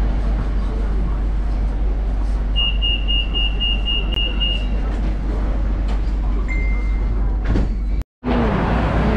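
Bangkok BTS Skytrain car standing at a station with its doors open: a steady rumble of the train, and a rapid string of high beeps lasting about two seconds, the door-closing warning. A single shorter tone follows a few seconds later.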